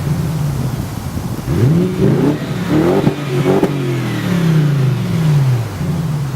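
Bentley Continental GT V8 S engine and exhaust blipped about four times in quick succession, each rev rising and dropping sharply, then one longer rev sinking slowly back to idle.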